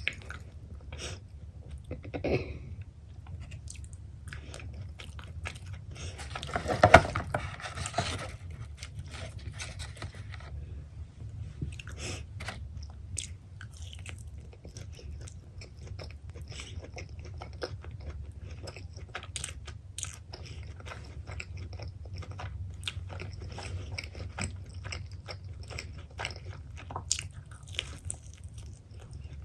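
Close-miked chewing and biting of pepperoni pizza, with crisp crust crunches and many small mouth clicks. A louder, longer bite or crunch comes about seven seconds in, over a steady low hum.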